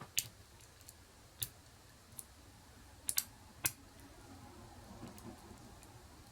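A handful of small, sharp, isolated clicks from a hook pick and tension wrench working the pins of a pin-tumbler challenge lock, two of them close together a little past the middle, followed by faint handling rustle.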